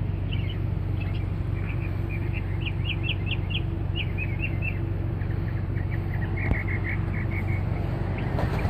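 Birds chirping in short runs of quick high notes, over a steady low hum.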